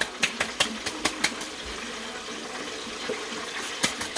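Chicken frying in hot olive oil at about 315°F: a steady sizzle with sharp crackles and pops, busiest in the first second and again near the end.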